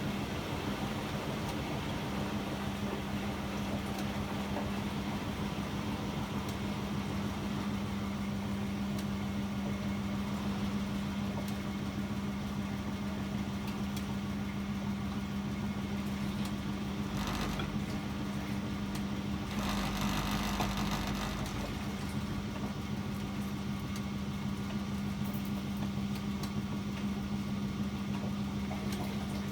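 Privileg 804 washing machine running with a steady hum. Two short rushing noises come about halfway through.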